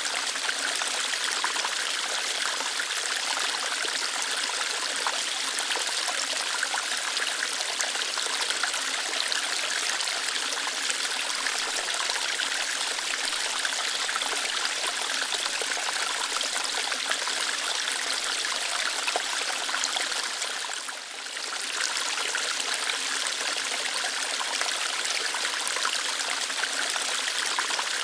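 Small waterfall, water flowing lightly through rocks with a steady splashing rush. The level dips briefly about three quarters of the way through.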